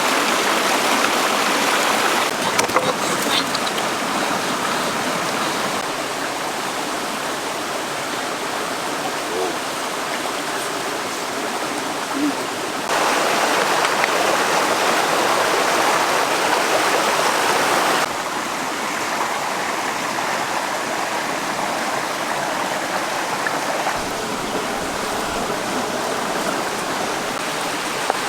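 Steady rushing of a flowing stream, its loudness stepping up or down abruptly a few times.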